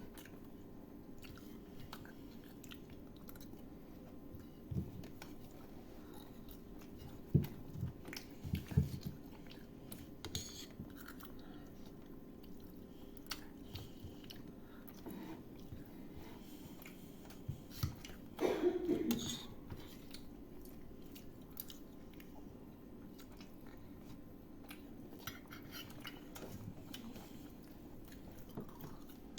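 People chewing and biting through mouthfuls of spicy chow mein noodles, with scattered soft knocks and clicks over a steady low hum. A brief louder sound comes about two-thirds of the way through.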